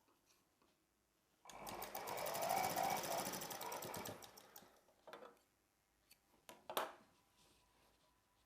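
Sewing machine running for about three seconds, stitching fast and evenly. A couple of short clicks follow.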